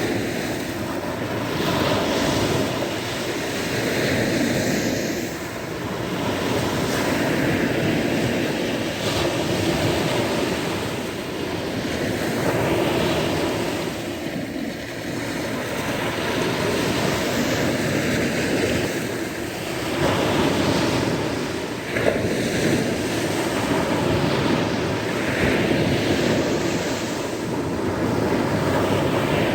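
Sea waves breaking and washing onto the shore, a continuous surf that swells and eases every few seconds. A single sharp click comes about two-thirds of the way through.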